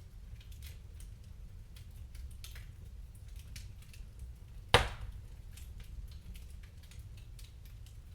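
Wood fire crackling, with small snaps throughout and one loud sharp pop a little under five seconds in, over a low steady rumble.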